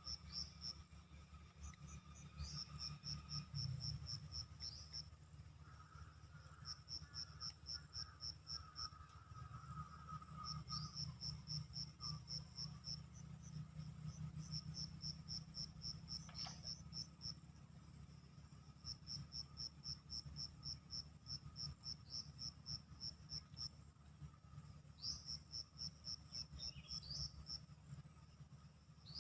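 Insects chirping in repeated trains of rapid high pulses, about five a second, each train lasting a few seconds, over a faint low rumble, with a few brief chirps mixed in.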